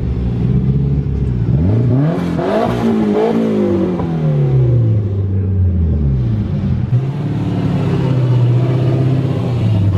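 Car engine revving: the pitch climbs sharply about a second and a half in, then falls back gradually over several seconds and settles into a steady run.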